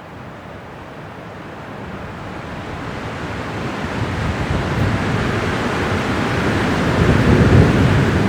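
Strong winter wind, one gust building steadily louder into a deep rumble near the end.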